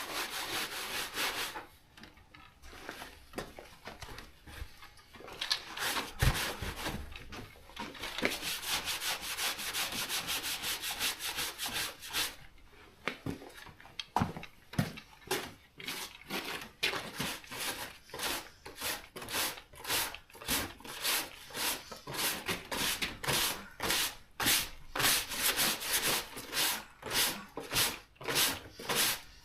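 Hand scrubbing, something rubbed back and forth over a surface to wipe off dirt. Longer rubbing spells early on give way to short, even strokes, about two a second, in the second half.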